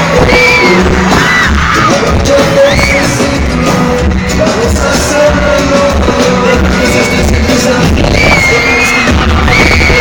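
Live pop concert heard from the audience: loud amplified band music with a heavy pulsing beat and singing.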